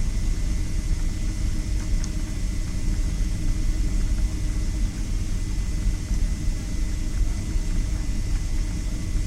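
Aircraft engine drone: a steady low rumble with a faint, even high whine running through it, without rising or falling.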